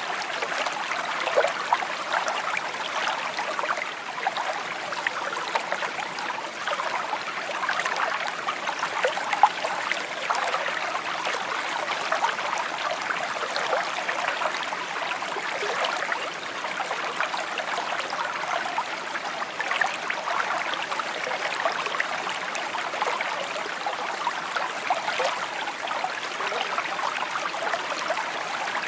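A shallow creek babbling and trickling over stones, a steady stream of small gurgles and splashes.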